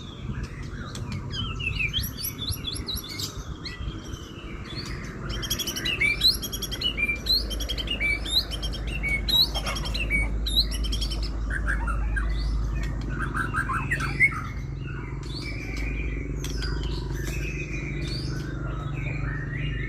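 White-rumped shama (murai batu) in full song: a fast, varied run of whistled phrases, trills and chirps. A steady low hum runs underneath.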